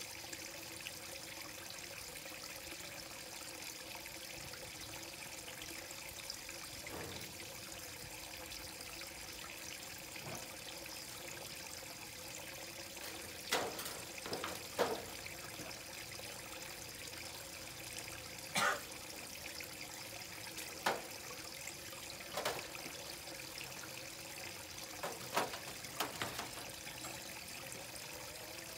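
Water trickling steadily into a koi pond, with a few short splashes about halfway through and near the end.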